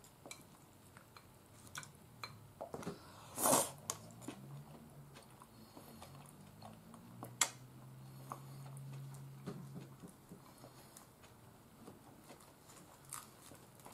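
Close-up chewing of a breaded fried oyster, with a loud bite or crunch about three and a half seconds in and sharp clicks of chopsticks against a ceramic bowl. In the middle a low hummed voice runs for several seconds.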